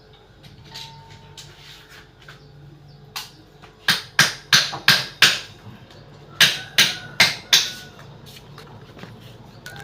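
Hammer blows in two quick runs: five strikes at about three a second, a short pause, then four more, over a faint steady low hum.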